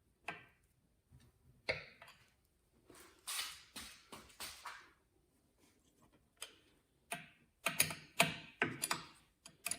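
Irregular clicks, taps and short scrapes of hand work on the outboard's carburetor throttle linkage, small metal parts and tools knocking against the engine. They are sparse at first and come quicker near the end.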